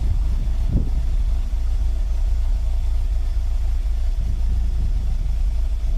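Toyota MR2 engine idling with a steady low rumble. The exhaust is barely audible now that its leak has been sealed with exhaust repair wrap.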